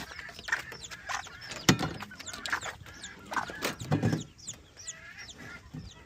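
Chickens: many short, high chick peeps over a hen's clucking, with a few knocks about two and four seconds in.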